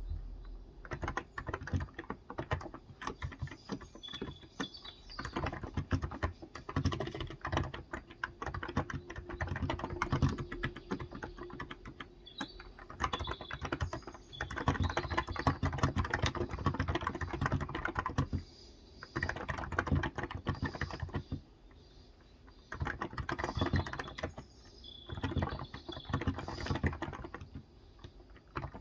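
Cox Endeavor electrostatic capacitive (Topre-style) keyboard with light 35 g switches, typed in fast bursts of soft key clicks broken by short pauses.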